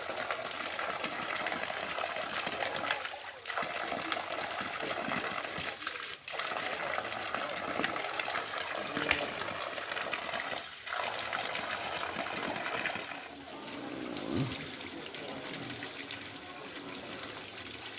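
Hot mineral spring water gushing steadily, a constant rushing that drops away briefly a few times.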